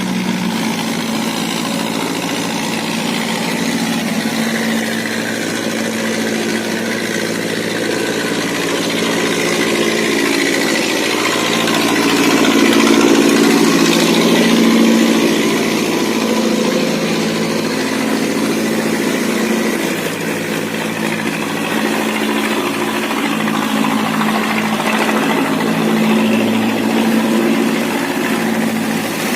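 Motorboat engines running steadily as boats pass through a sluice gate, growing louder around the middle as one passes close, then easing off.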